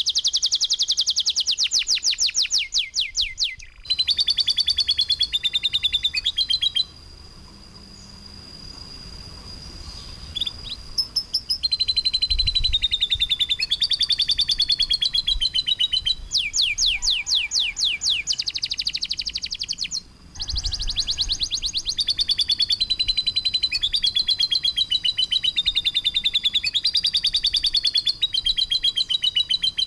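Songbird masteran recording: harsh, rapid-fire trills of fast repeated notes, about a dozen a second, alternating with a long high whistle over a wavering lower trill. The song drops to a quieter stretch of several seconds about a quarter of the way in, then resumes.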